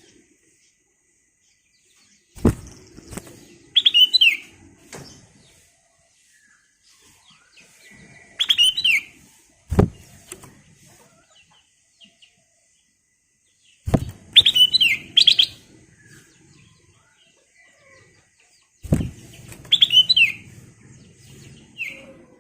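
Black-crested bulbul singing short phrases of a few quick whistled notes, repeated about every five seconds. A sharp knock comes just before several of the phrases.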